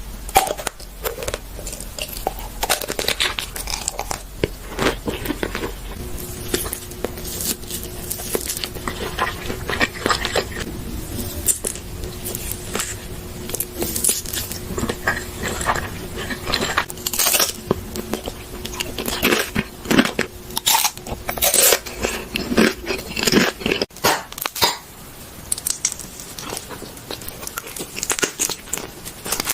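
Close-miked eating sounds: repeated bites, crunching and chewing of food, with many short sharp clicks and crackles throughout.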